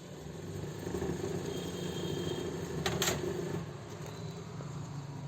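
A steady low mechanical hum, with a couple of sharp clicks about three seconds in.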